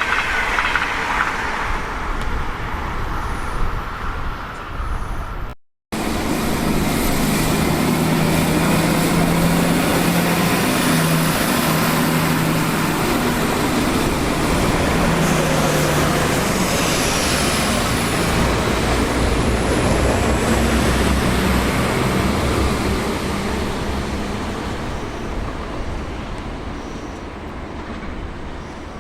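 Trains passing through a station: a cut about six seconds in, then a train runs past with a steady low hum under broad rolling noise, fading away over the last several seconds.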